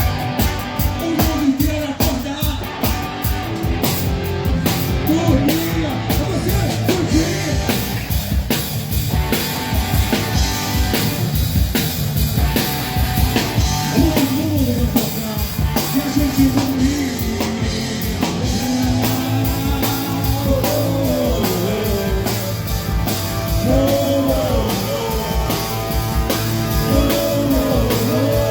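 Live rock band playing with drum kit and electric guitar on a steady beat, a male voice singing the melody over it.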